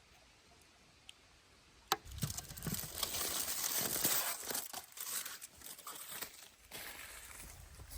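A sharp click about two seconds in, then several seconds of irregular crinkling and rustling, as of something being handled close by, easing off near the end.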